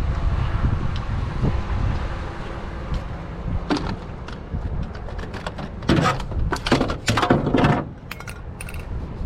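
Clattering, rattling knocks of curbside scrap being handled and loaded, loudest in a cluster of clanks in the second half, over a low rumble.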